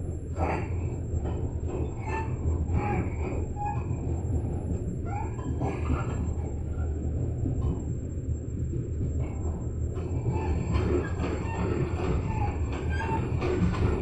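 Gangway between two coupled railway carriages squeaking and creaking in many short, irregular squeals as the moving cars shift against each other, over the steady low rumble of the running train. The squeaks ease off for a few seconds past the middle, then pick up again.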